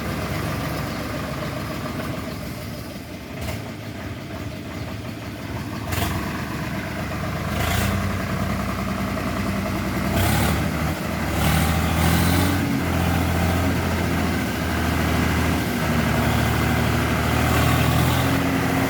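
Swaraj tractor's diesel engine running at low revs, then picking up and working harder from about eight seconds in as the tractor is manoeuvred. A few sharp knocks come through along the way.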